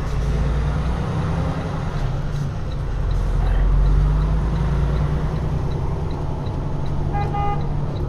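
Car engine and road rumble heard from inside the cabin, steady and low, with a faint regular ticking about three times a second and a short pitched tone near the end.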